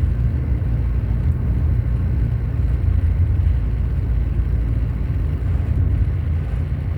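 Steady low rumble of a moving car heard from inside its cabin: road and engine noise while driving.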